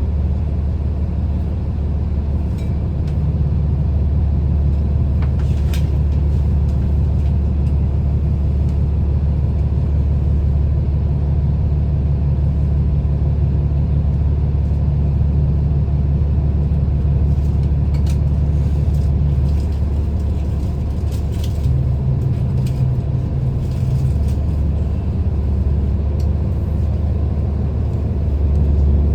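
City transit bus heard from inside while moving: a steady low engine and road rumble, with occasional light rattles. The engine note shifts about two-thirds of the way through.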